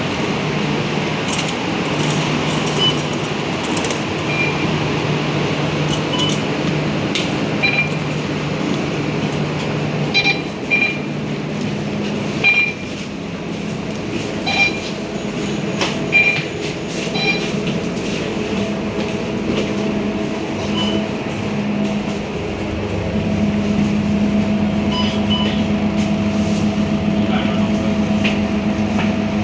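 Scania K230UB bus engine running, heard with the bus's rumble. The engine note steps up in pitch about halfway through and again near the end as the bus pulls away and gains speed. A few short high beeps or ticks sound over it.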